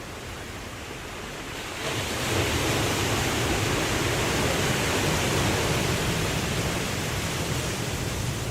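Ocean waves washing in a steady rush, swelling louder about two seconds in and slowly easing off.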